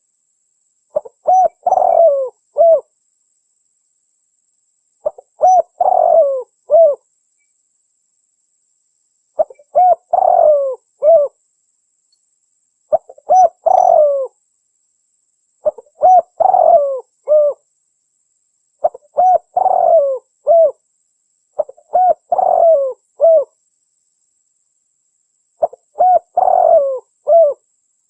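Spotted dove cooing: a phrase of several short coos, repeated eight times about every three to four seconds with dead silence between. It is a recorded call played as a lure to draw wild doves.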